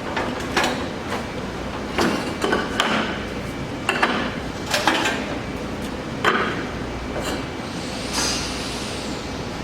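Steel wood-stove parts being handled, knocking and clinking against each other: about seven sharp metallic knocks at uneven intervals, with a brief scraping rush near the end.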